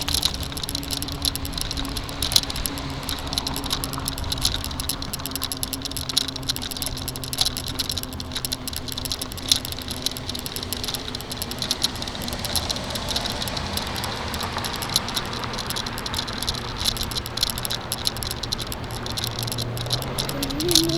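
Bike rattling and clattering continuously as it rides over a rough, bumpy road surface, with a steady low hum underneath.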